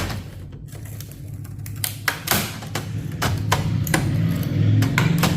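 Scattered clicks and knocks of metal server parts being handled and pried at, over a steady low hum.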